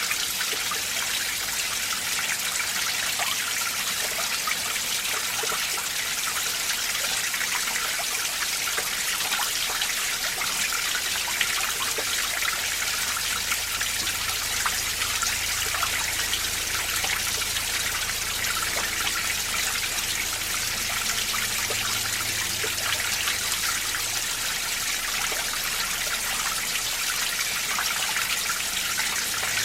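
Mountain stream in winter: water trickling and splashing steadily over rocks and ice.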